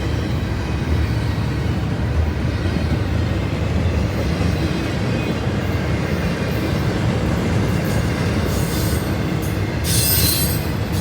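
A train rolling past with a steady low rumble. Near the end come a few seconds of high-pitched screeching bursts from the wheels on the rails.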